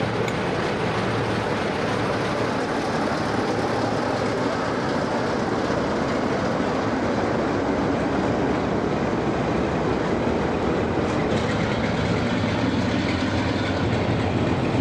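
Diesel-hauled train running on the line: a steady rumble of wheels on rail with some clatter from the track joints.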